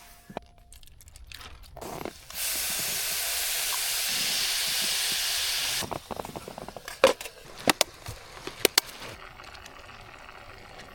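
A loud, steady hiss starts about two seconds in and cuts off suddenly about three and a half seconds later. A few sharp knocks follow.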